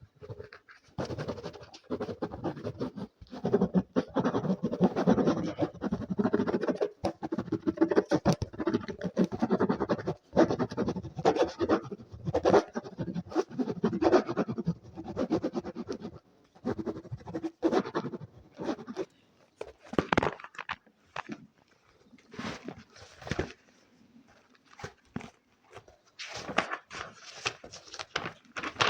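Fast ASMR scratching close to the microphone: a dense run of quick scratching strokes for about sixteen seconds, then thinning out into separate strokes and taps.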